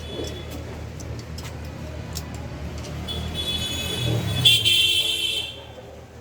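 Road traffic rumbling steadily, with a vehicle horn sounding for about two and a half seconds past the middle.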